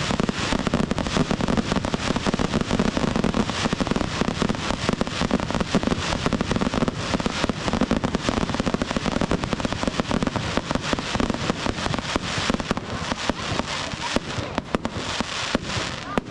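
A dense, unbroken barrage of firework bangs and crackles, many explosions a second, thinning a little near the end.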